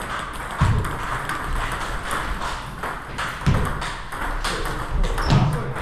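Table tennis rally: the celluloid ball clicking off paddles and bouncing on the table in quick succession, with three heavier low thuds about half a second, three and a half and five and a half seconds in.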